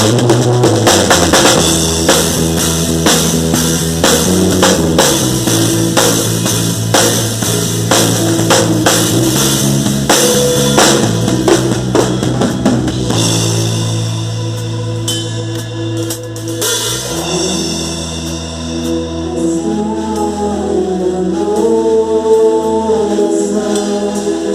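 A live gospel band plays with no singing: a drum kit keeps a steady beat over stepping bass notes. About halfway through the drums drop out, leaving bass and a held melodic line.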